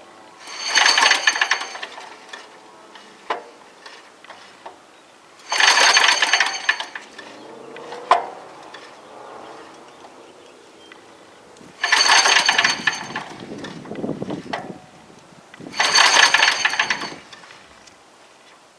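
Engine of a 1959 David Bradley tractor cranked four times by pull-start, turning over briefly each time without firing. It has no spark, which the owner suspects is a bad ignition coil.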